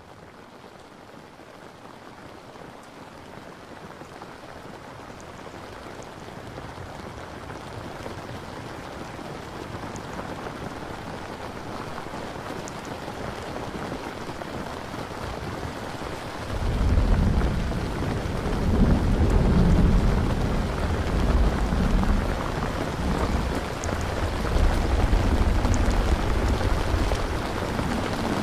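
Steady rain, fading in and growing louder. About halfway through, a long low rumble of thunder starts and rolls on, swelling and easing, to the end.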